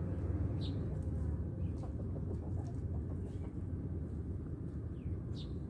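Birds calling over a steady low wind rumble: a few short downward chirps, and a quick run of clucking calls about two to three seconds in.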